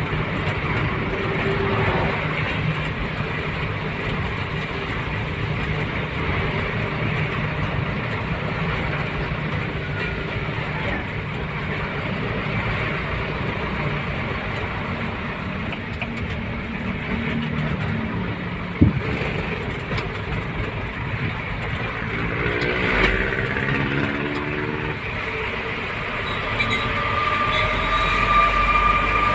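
Truck running on the road, a steady engine and road noise with a low hum. A single sharp knock comes about two-thirds of the way through, the engine pitch then rises for a few seconds, and a steady high tone sounds near the end.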